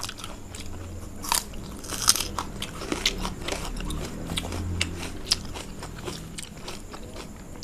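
Close-up chewing and biting of fried food with rice, with sharp crisp crunches at irregular intervals.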